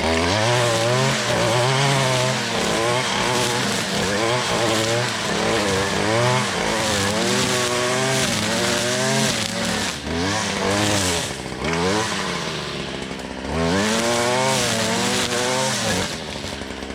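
Petrol string trimmer (weed eater) engine running hard, its pitch rising and falling again and again as the throttle is worked while cutting tall grass and weeds. About sixteen seconds in it drops back toward idle.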